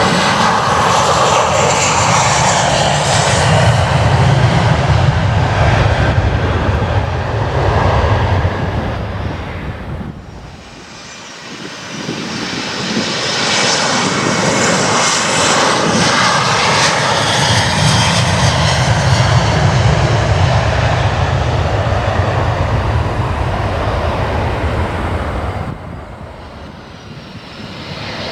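Jet aircraft engines, loud, swelling and easing twice: the sound dips sharply about a third of the way in, builds back up, then drops off suddenly near the end, with a faint high turbine whine in the quieter moments.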